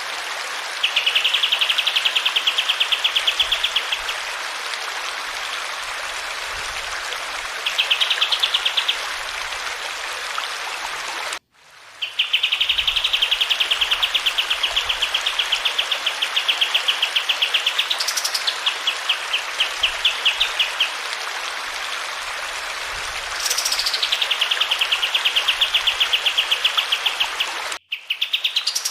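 Kapas tembak songbird singing long, rapid, rattling trills, a few led by a quick upward-sliding note, over a steady rush of running water. The sound drops out twice for a moment.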